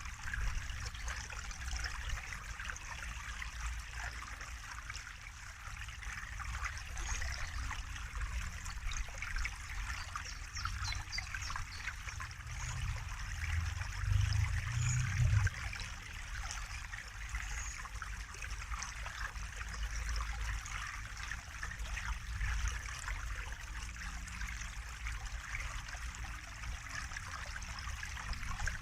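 Running water trickling and splashing steadily, with a low rumble underneath that swells briefly about halfway through.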